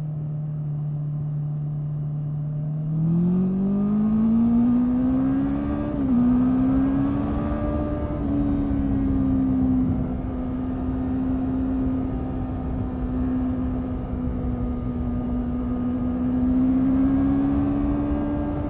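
Honda 650 inline-four motorcycle engine and exhaust under way: it holds a steady note, then accelerates with rising revs, shifts up once about six seconds in, and settles into a steady cruise with small swells in throttle.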